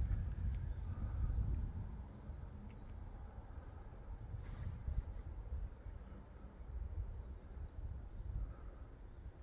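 Forest ambience: small birds chirping faintly, with a thin high call about five seconds in, over a low steady rumble that is louder in the first second or two.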